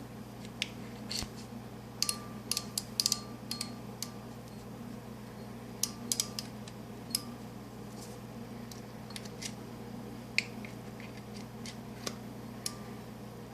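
Irregular sharp clicks and small taps of metal parts and tools being handled while working on a Shimano Sahara 2500FD spinning reel, some with a brief ring, over a steady low hum.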